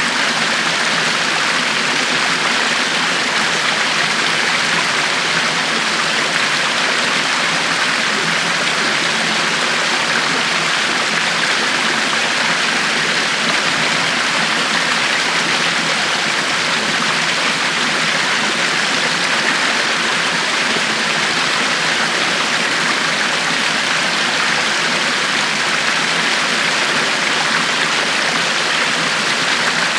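River water flowing steadily over rocks, a constant rushing with no breaks or changes.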